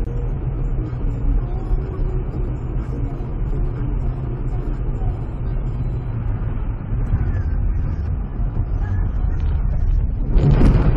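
Steady low rumble of engine and road noise inside a moving car, picked up by a dashcam. A louder burst of noise comes near the end.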